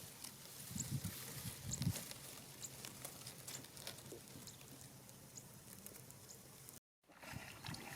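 Faint splashing and trickling of shallow water, with scattered small ticks and a couple of soft low thumps about one and two seconds in. The sound drops out completely for a moment near the end.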